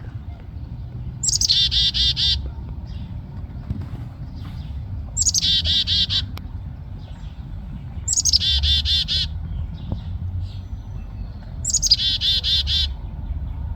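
A songbird singing the same short phrase four times, a few seconds apart; each phrase is a quick run of repeated high notes lasting about a second. A low steady rumble lies underneath.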